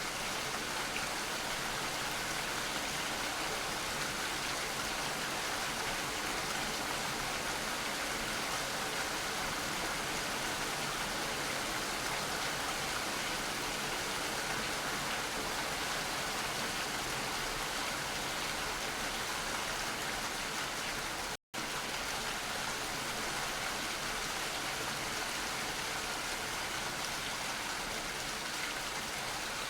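Steady rain falling, an even hiss of dense drops. It cuts out for an instant about two-thirds of the way through, then resumes unchanged.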